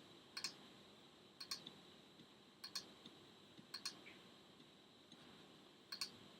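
Computer mouse button clicking five times, each a quick double click, about a second apart with a longer pause before the last one.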